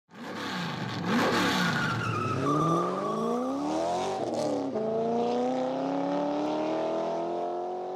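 Car engine revving: its pitch swings up and down several times in the first half, then climbs steadily through the second half.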